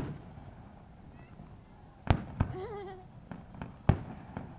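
Aerial fireworks shells bursting: a sharp bang right at the start, then a run of six or so bangs of varying loudness from about two seconds in.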